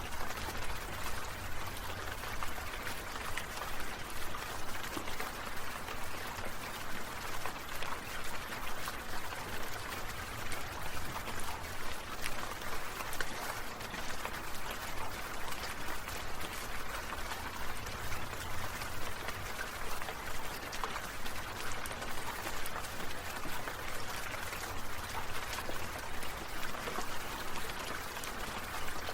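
Sprinkler water spraying and pattering down as a steady hiss of many fine drops, its level pulsing slightly.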